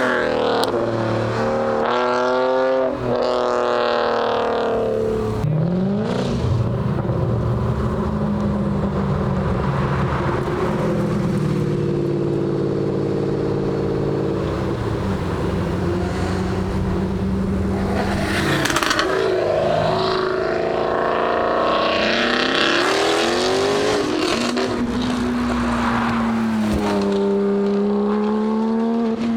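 Several car engines, one after another, accelerating hard and passing by as they pull out of a car meet. Their notes rise in repeated sweeps through the gears, with steadier engine running in between.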